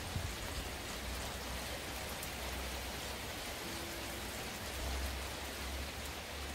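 Heavy rain falling steadily as an even hiss, with a low rumble underneath that swells slightly about five seconds in.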